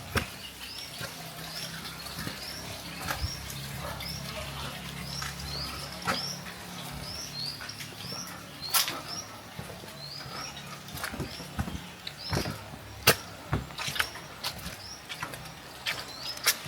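A small bird chirping over and over, a short rising note roughly once a second, over the hiss of rain. Sharp taps of dripping water come now and then, the loudest about halfway through and again near the end.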